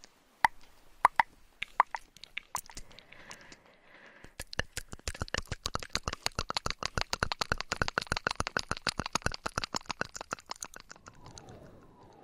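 ASMR trigger sounds close on a binaural dummy-head microphone: a few scattered plopping clicks, then a fast even run of crisp clicks, about ten a second, that fades out near the end.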